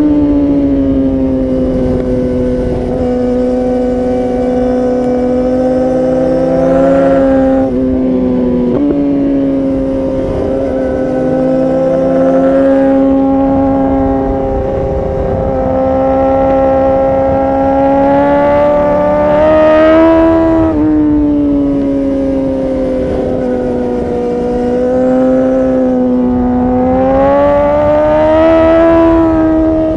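2019 Yamaha R6's 600 cc inline-four running through an Akrapovic Evolution Line titanium exhaust under riding load. Its pitch climbs and falls with the throttle, with a few sudden steps at gear changes; the loudest pull comes about two-thirds of the way in.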